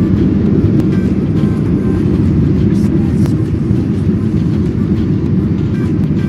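Steady low rumble of jet airliner cabin noise, the engines and airflow heard from inside the passenger cabin.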